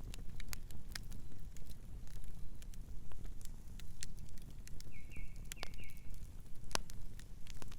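Wood campfire crackling, with sharp irregular pops over a steady low rumble. A bird chirps briefly about five seconds in.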